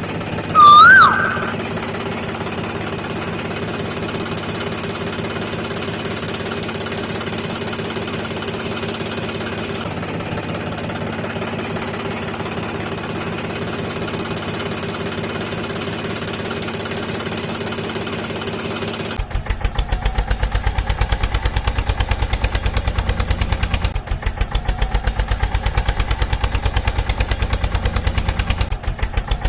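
Toy tractor's small motor running with a steady hum, then switching abruptly about two-thirds through to a louder, fast, even low chugging. A brief, very loud chirp that glides up and down comes about a second in.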